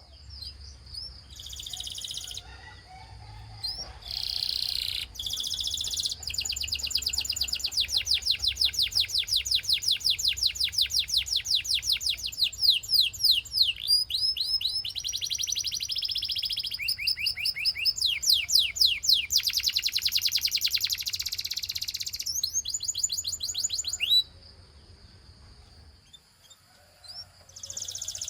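Canary singing: long, fast trills of rapidly repeated sweeping notes, broken by buzzier rolls. The song drops away for a few seconds near the end, then starts again.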